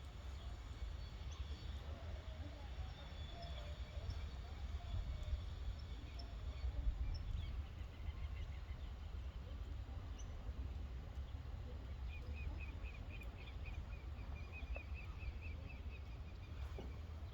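Outdoor ambience with a low steady rumble. In the last few seconds a bird calls with a rapid run of short high notes, about four a second.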